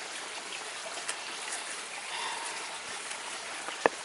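A steady rushing hiss of outdoor background noise, with one sharp knock near the end.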